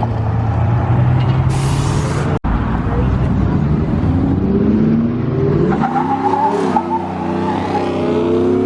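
Car engines driving past and accelerating hard, revving up in pitch as they pull away, with crowd voices under them.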